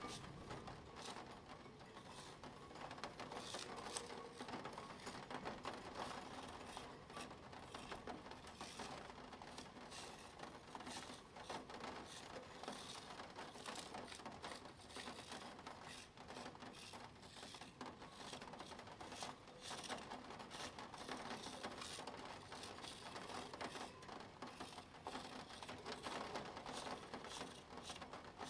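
Plastic Spirograph gear wheel clicking and ticking steadily as its teeth roll around the toothed ring, a faint, dense run of small clicks.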